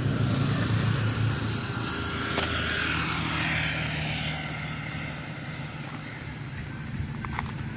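A steady engine drone with a low hum, and a sharp click about two and a half seconds in.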